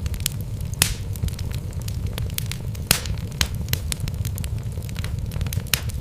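Wood fire burning in a fireplace: logs crackling and popping with sharp irregular snaps over a steady low rumble of the flames, the loudest pops about one and three seconds in.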